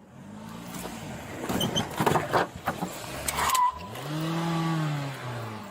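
A car engine is being revved hard, its pitch climbing and then rising and falling in a long swell near the end, as the driver rams the police car. A few sharp knocks and crackles sound around the middle.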